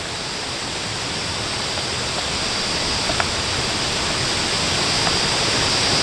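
Steady rushing hiss, slowly growing louder, with a faint tick about three seconds in.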